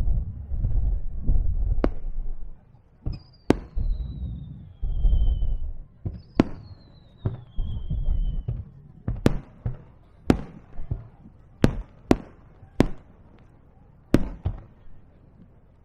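Aerial fireworks going off: deep rolling booms, then two long whistles falling in pitch, followed by a run of single sharp bangs about a second apart that thin out near the end.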